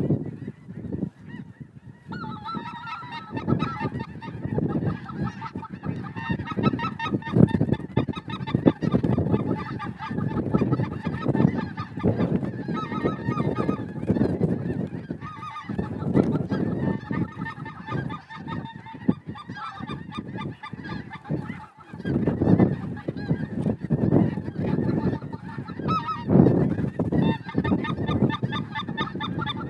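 A continuous clamour of many geese honking and calling at once, beginning about two seconds in.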